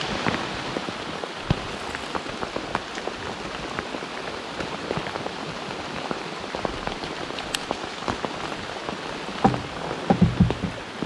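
Heavy rain pouring down: a steady hiss full of sharp ticks from individual drops. A few louder, deeper thumps come about nine and a half to ten and a half seconds in.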